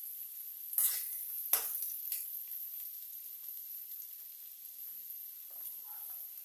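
Chopped onions frying in hot oil in a pan, a steady sizzle. A spoon stirring them knocks against the pan three times in the first two seconds or so.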